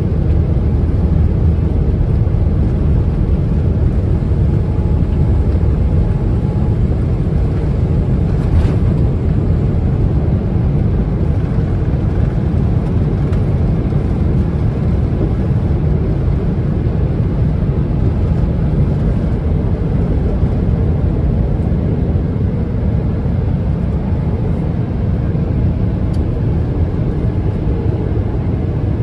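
Boeing 777-300ER's twin GE90 engines and airflow heard inside the cabin as a loud, steady, deep rumble during the climb after takeoff.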